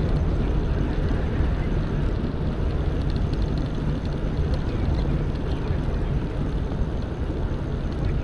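Steady low wind rumble on the microphone of a camera carried on a moving electric mountain bike, mixed with tyre noise on the trail.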